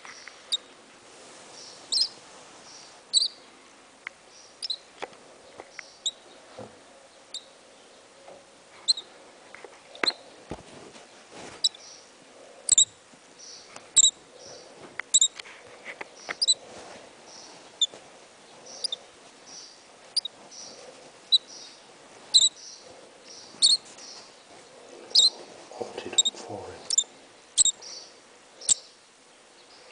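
A featherless nestling bird cheeping: short, sharp, high-pitched chirps, about one a second and irregularly spaced, some loud and some faint.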